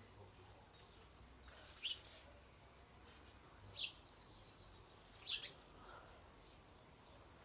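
A mouse in a fireplace giving three short, high squeaks, about one and a half to two seconds apart, over faint background hiss.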